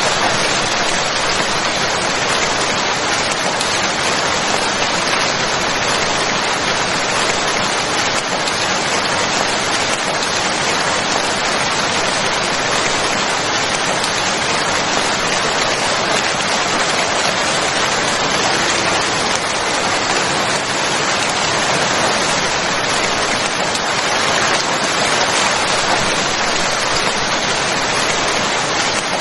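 Steady, heavy rain falling and pattering on surfaces, an even hiss with no thunder or breaks.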